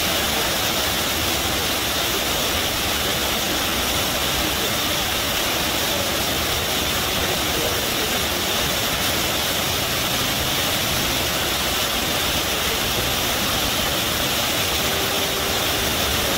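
River water gushing in a steady, unbroken rush, with no pauses or changes in level.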